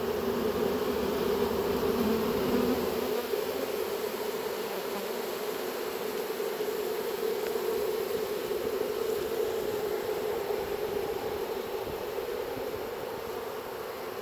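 Honey bee swarm buzzing: the steady hum of many bees in flight as the swarm is dumped into a hive box. It eases slightly toward the end.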